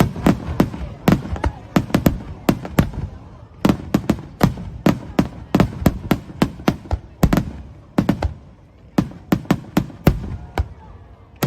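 Aerial fireworks bursting in a rapid, irregular barrage of sharp bangs, several a second, easing briefly about two-thirds through and thinning toward the end.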